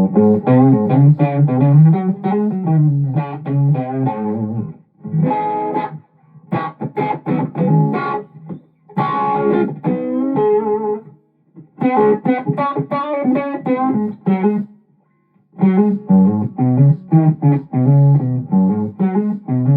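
Electric guitar played in short phrases of plucked notes and chords through a boost pedal into an amp simulator, with the guitar's volume knob rolled back. The phrases break off with brief pauses about five, six, eleven and fifteen seconds in.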